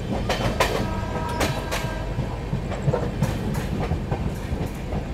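Express train coaches running at speed, heard from an open coach door: a steady rumble of wheels on rails, with irregular sharp clacks as the wheels cross rail joints and points.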